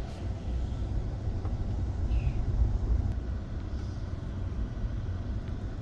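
Steady low rumble of a moving passenger train, heard from aboard.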